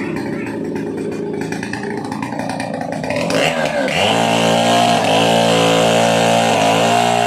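Stihl 070 AV single-cylinder two-stroke chainsaw running at lower speed, then revved up about four seconds in and held at a steady high pitch.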